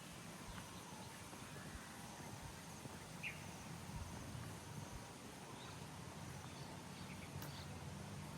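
Faint outdoor ambience: a low, steady rumble with a few brief bird chirps, the clearest about three seconds in, and a few soft thuds.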